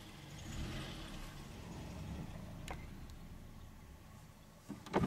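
Car engine running low, swelling about half a second in and then fading as a car drives off. A sharp click comes about two-thirds of the way through, and a couple of knocks come near the end.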